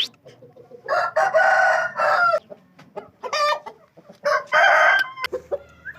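Rooster crowing: a long crow about a second in, a short call near three seconds, and a second long crow just after four seconds.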